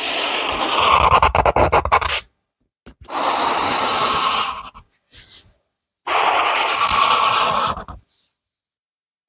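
A drawing tool scraping on paper in three spells of coloring strokes, each about two seconds long, with short silent pauses between them. The first spell ends in quick, short back-and-forth strokes.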